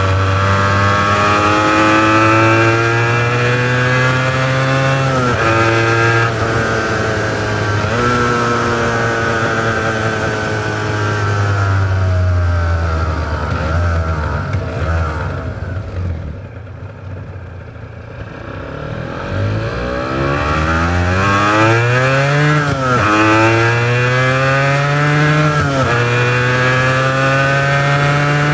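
Honda NS400R's two-stroke V3 engine on its original mufflers, accelerating with revs climbing and dropping sharply at each upshift. About halfway through, the throttle closes and the engine falls to quieter low revs. It then accelerates hard again through several more quick upshifts.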